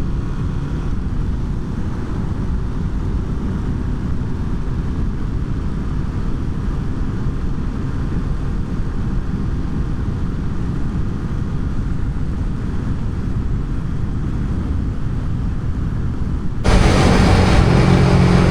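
Road vehicle driving at speed: a steady low rumble of engine and tyres. About two seconds before the end it jumps abruptly to a much louder, hissing rush with a strong steady hum, which stops just as sharply.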